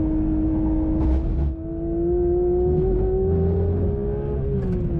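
Porsche 911 GT3 RS's 4.0-litre flat-six at high revs under acceleration, heard onboard. Its pitch climbs steadily, with a short break about a second and a half in at an upshift, then falls near the end as the car slows for a corner.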